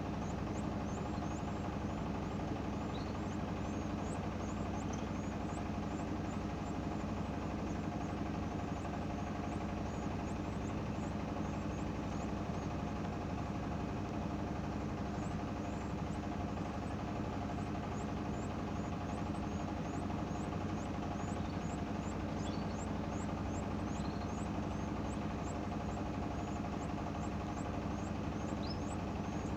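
A steady mechanical hum runs throughout, with many faint, very short high chirps from small birds over it, coming more often in the second half.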